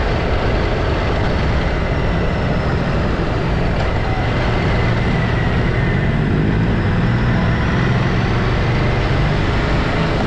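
Ducati Multistrada V2S motorcycle on the move: a steady engine rumble mixed with wind and road rush, with a faint steady whine.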